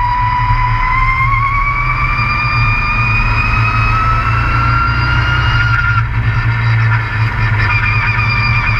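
Race truck running hard on track, heard from on board: a steady low engine rumble with a high whine over it that climbs slowly in pitch, cuts off about six seconds in, and comes back near the end.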